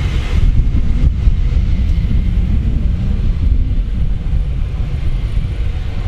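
A train moving through the station, a loud steady low rumble; a higher hiss fades away in the first half second.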